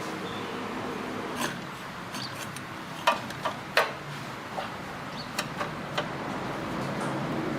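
A series of short, sharp clicks and taps, about eight in all and the loudest around three to four seconds in, over a steady low hum.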